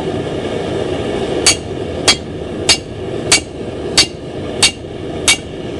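Hand hammer striking a steel drift driven through the eye of a hot axe billet, enlarging the hole: seven sharp metallic blows at an even pace, about two-thirds of a second apart, starting about a second and a half in.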